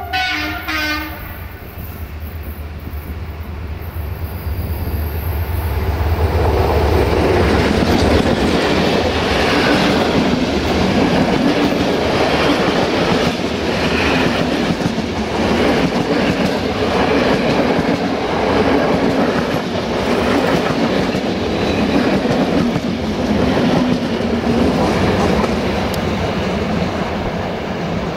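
A diesel-hauled passenger train passes at speed: a short two-tone horn blast right at the start, the deep rumble of the locomotive for the first several seconds, then the coaches clattering past with regular wheel beats over the rail joints.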